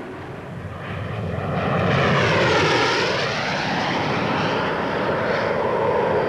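Hawker Hunter jet flying past, its engine noise swelling to its loudest about two seconds in, with the whine dipping and rising again in pitch around three seconds.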